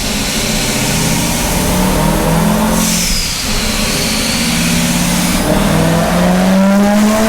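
Supercharged LS3 V8 in a C6 Corvette running on a chassis dyno, with a high whine that falls in pitch about three seconds in. From about five and a half seconds the engine climbs steadily in revs as a pull begins.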